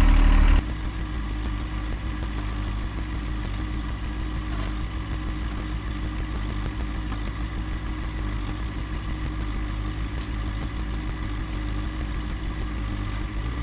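John Deere 1025R compact tractor's three-cylinder diesel engine running steadily while the backhoe works; it drops sharply in loudness about half a second in, then holds steady.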